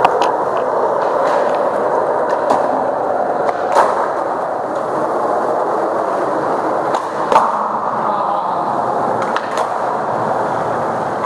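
Skateboard wheels rolling steadily over pavement, with a few sharp clacks from the board along the way.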